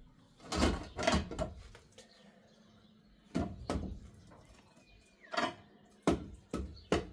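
A series of irregular knocks and clatters of hard objects being handled, some coming in quick pairs.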